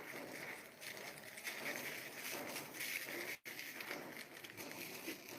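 A person eating singju, a crunchy raw-vegetable salad, close to the microphone: soft, irregular chewing and crunching. The sound cuts out briefly about halfway through.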